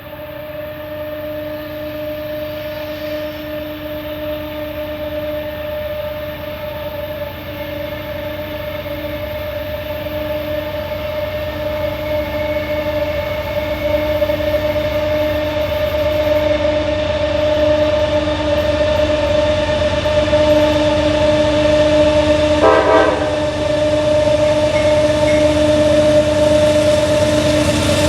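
Two GE freight diesel locomotives working hard uphill as the train approaches, a steady pitched whine that the uploader calls a scream, growing slowly louder. There is a short extra burst of sound about 23 seconds in.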